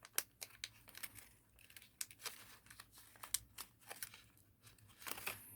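Paper being handled and folded by hand: irregular crackles and sharp creasing snaps of thin origami paper.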